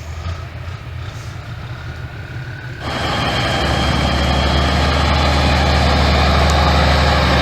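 Heavy truck engine running, quieter at first, then about three seconds in it abruptly becomes much louder and holds a steady, heavy drone under load.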